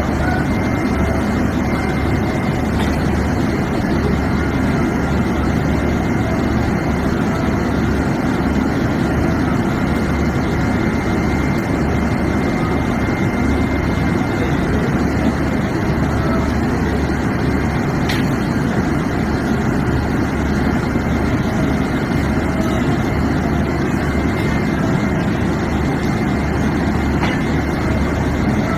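Locomotive engine running steadily at idle: a loud, even low rumble with a faint steady whine above it.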